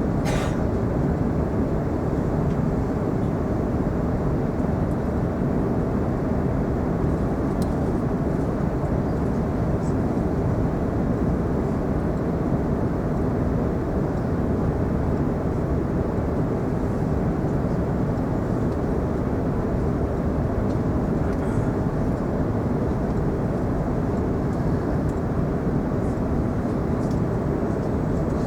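Steady low rumble of cabin noise inside an Airbus A380 airliner, engine and airflow noise, with a faint steady hum underneath.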